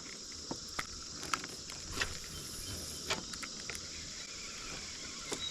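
Steady high-pitched insect chorus, with a few scattered light clicks and knocks.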